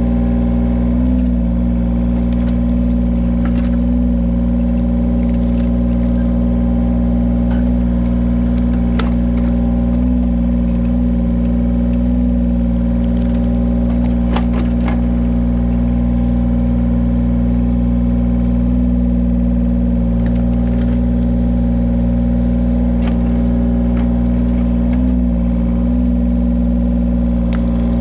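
Engine of a firewood splitting machine running steadily at constant speed, with a few faint sharp cracks or clicks over it.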